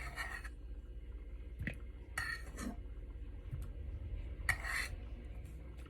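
A fork scraping boiled potatoes out of a cooking pot: three short scrapes a couple of seconds apart, with a few small clinks between them.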